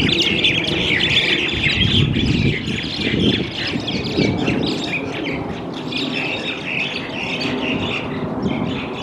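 A crowd of birds feeding together, chirping and chattering continuously in dense, overlapping short calls, over a steady low background rumble.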